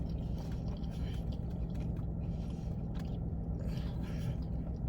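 Someone chewing a sub sandwich close to the microphone, soft irregular mouth sounds, over a steady low hum.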